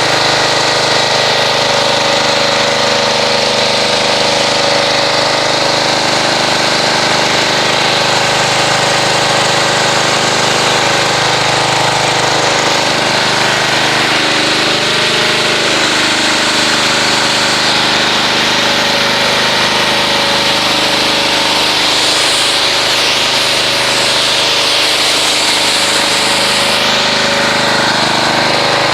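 Pressure washer running steadily, its motor drone under the hiss of the high-pressure water spray as a car is rinsed off.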